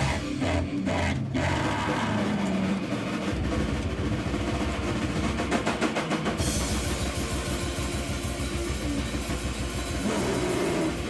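Live noise music: a dense, distorted wall of sound over a heavy low drone. A stretch of fast, even pulsing runs through the middle, then a harsher hiss takes over about six and a half seconds in.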